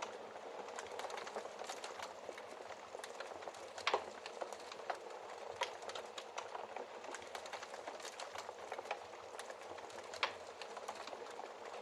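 Wood fire crackling: a steady soft hiss with many irregular quick pops, the loudest about four seconds in and again near the end.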